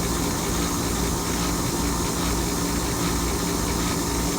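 2012 Carrier Comfort air conditioner running with a steady hum under a loud, continuous hissing sound, which the owner takes for its pressure release valve venting.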